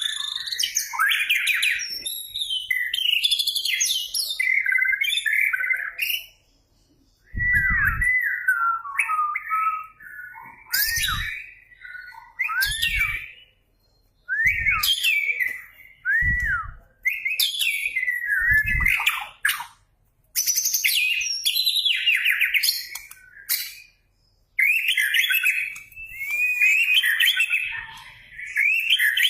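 White-rumped shama (murai batu) in full song: loud, rapidly varied whistled phrases with swooping glides, delivered in bursts with short pauses between them. A few low thumps sound under the song in the middle.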